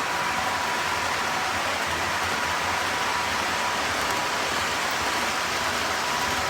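Ceiling-mounted model train running along its track: a steady rushing noise of wheels and motor, with a faint steady whine.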